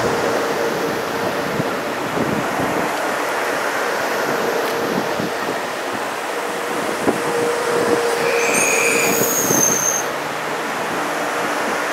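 Kawasaki M8 electric multiple-unit railcars rolling past with a steady hum and scattered wheel clicks over the rails. A brief high-pitched wheel squeal comes about eight and a half seconds in and lasts over a second.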